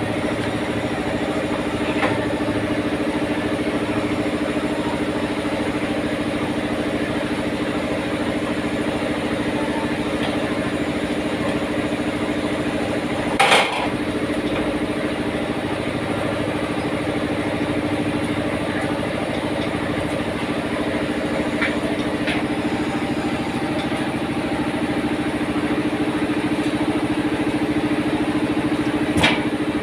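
Tyre-changing machine running with a steady hum as it works a large tyre off its rim, with a sharp knock about halfway through and another near the end.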